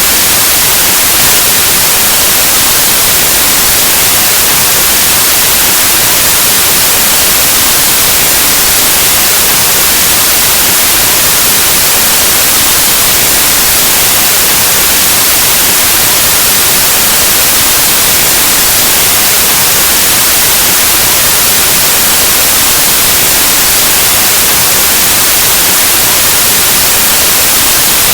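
Loud, steady white noise: an even static hiss across the whole range, brightest in the treble, with no change.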